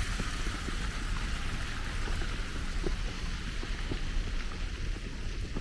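Steady outdoor hiss over a low rumble, the sound of wind and slushy street traffic on a snowstorm walk, with a few faint ticks.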